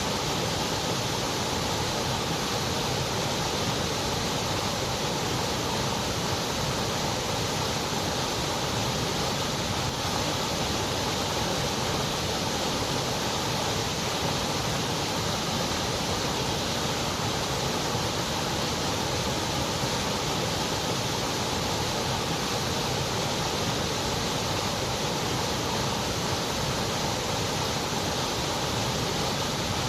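Synthetic white noise: a steady, even hiss spread across the frequency range, unchanging throughout, with the top end rolled off above about 8 kHz.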